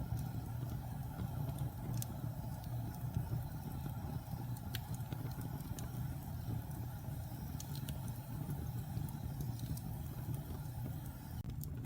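Wood fire burning in a fireplace: a steady low rumble from the flames, with sharp crackles and pops of the burning wood at irregular moments.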